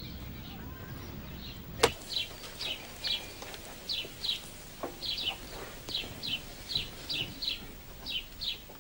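A single sharp click about two seconds in, then a small bird chirping over and over, short chirps often in pairs, about two a second.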